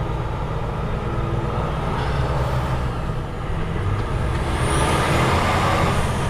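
HGV tractor unit's diesel engine running steadily while driving, with a hissing swell of noise about five seconds in.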